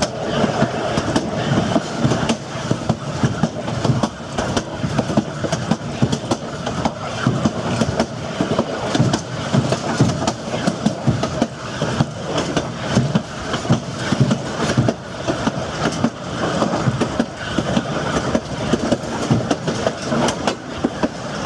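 Narrow-gauge passenger cars of the Durango & Silverton train rolling along the track, wheels clattering over the rails with a steady rumble and a dense run of irregular clicks and knocks.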